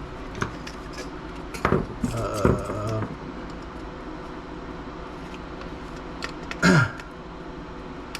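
Small metal laptop parts clinking and clattering as they are handled during disassembly. There is a clack with a short metallic ring about two seconds in, and a louder clatter near the end.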